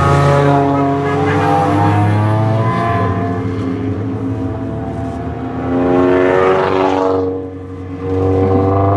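Race car engines running, their pitch rising and falling, with a brief drop in level about seven and a half seconds in.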